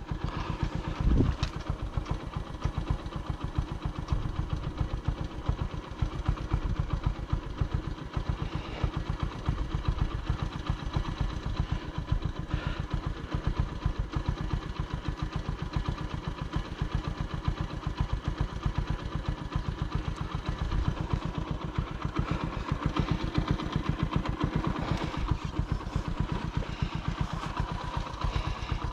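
Motorcycle engine running with a steady, rapid beat throughout, with a brief knock about a second in.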